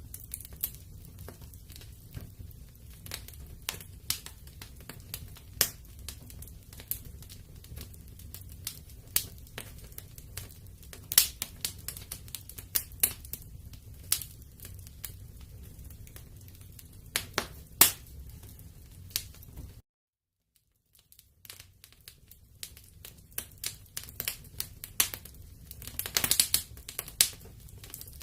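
Wood fire in a fireplace crackling, with irregular sharp pops over a steady low rumble. The sound cuts out completely for about a second two-thirds of the way through, then the crackling returns, busier near the end.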